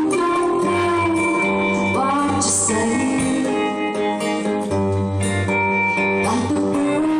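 Live music: guitar accompanying a woman singing long held notes.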